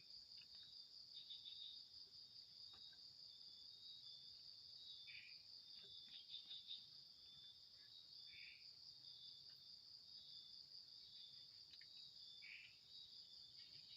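Steady, high-pitched chorus of night insects in the forest. A short, lower call is repeated four times, roughly every three to four seconds, with a few faint ticks in between.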